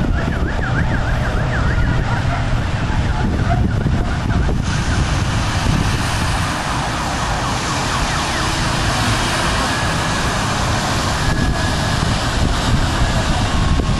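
Emergency vehicle siren wailing rapidly up and down, most clearly in the first couple of seconds, over heavy wind rumble on the microphone; a louder steady hiss comes in about five seconds in.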